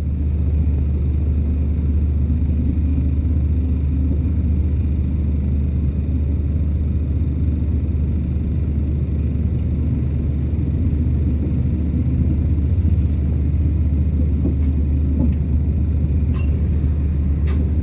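Steady low rumble of a passenger train heard inside the carriage, with a couple of faint clicks near the end.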